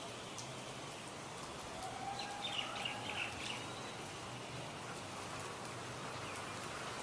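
Steady outdoor background noise with a few short, high bird chirps about two to three and a half seconds in.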